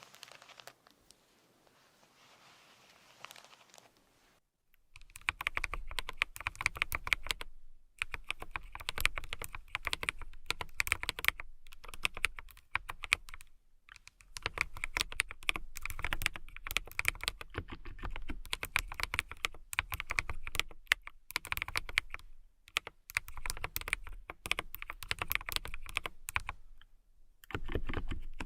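Fingernails tapping rapidly in quick runs of clicks, broken by short pauses. The tapping starts about five seconds in, after a few seconds of near quiet.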